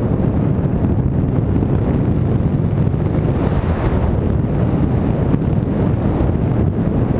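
Heavy wind buffeting the microphone: a loud, steady low rush with no engine or motor tone in it.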